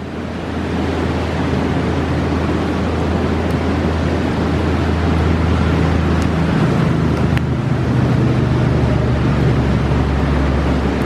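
Steady, loud rushing of a fast mountain river, with a deep rumbling undertone and two or three faint pops from a campfire.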